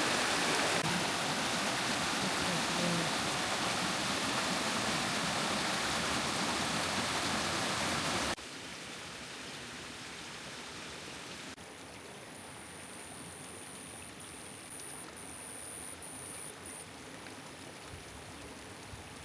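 Steady rushing hiss of heavy rain and running water. It drops sharply in level about eight seconds in and again a few seconds later as the shot changes. After that a faint high, thin whine comes and goes.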